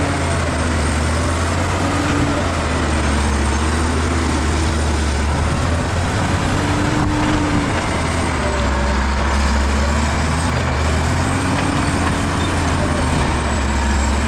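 Bulldozer's diesel engine running steadily under load, with a deep drone and a thin high whine that rises and falls.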